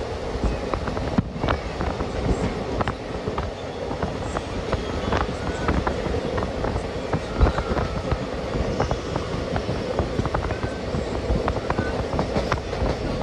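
Moving passenger train: a steady rumble of wheels on the track, with frequent short clicks and rattles.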